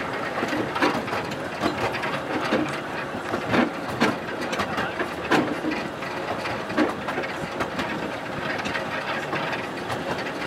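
Miniature-gauge steam train's carriages running along the track, heard from on board: a steady rumble of wheels on rail with irregular clacks and rattles about once a second.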